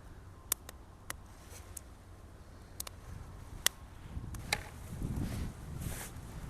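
Small wooden kindling being handled for a campfire: sharp, uneven wooden clicks and snaps, the loudest about three and a half seconds in, with a low rumbling noise building in the second half.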